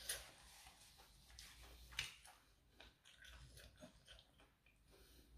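Faint chewing and small mouth sounds of someone eating roast duck, with two soft clicks, one at the start and one about two seconds in.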